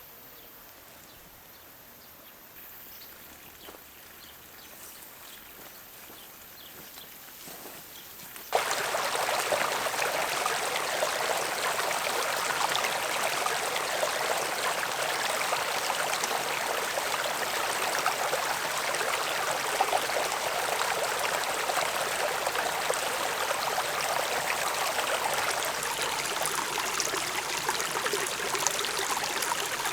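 Quiet at first with faint ticks. About eight and a half seconds in, a loud, dense sizzle starts all at once and holds steady: food going into hot oil and frying.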